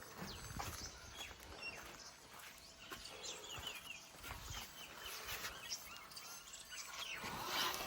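Faint bird chirps, short quick calls that come thickest a few seconds in, over scattered low knocks and light background noise.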